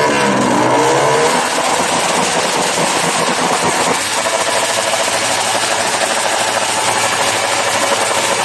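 Motorcycle engines revving loudly, with a rev falling away in pitch in the first second or so, then a continuous dense engine and exhaust noise.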